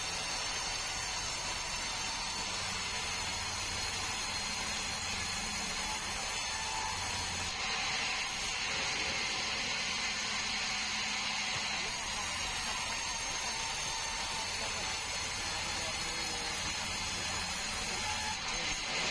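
Sawmill saw running steadily with a high whine and hiss, cutting through a bengkirai log. The cutting noise gets harsher for a few seconds near the middle.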